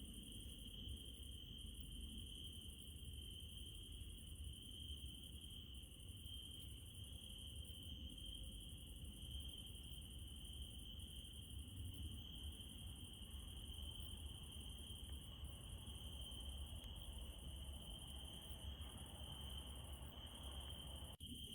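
Crickets trilling in one steady, unbroken high chorus, with a low rumble underneath and a few faint clicks.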